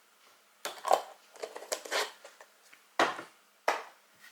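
Craft supplies being handled on a desk: a flurry of small clicks and rustling, then two sharp taps about a second apart.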